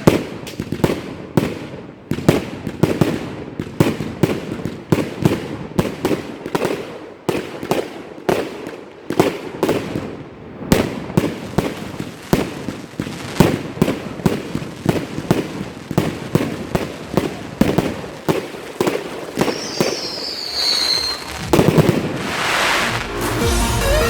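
Triplex Blizzard TXB401 compound firework battery firing: a fast, uneven string of sharp shots, about two or three a second, closing in a dense rush of noise near the end.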